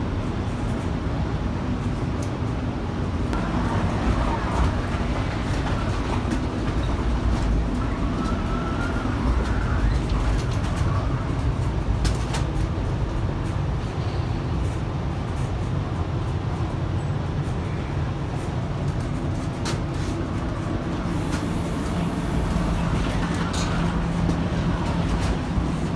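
Steady running rumble of a streetcar heard from inside the car, wheels on the rails and motor noise, with a few sharp clicks.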